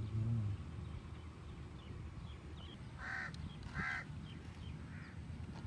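A bird calling outdoors: two loud calls about three seconds in, under a second apart, then a fainter third call about a second later.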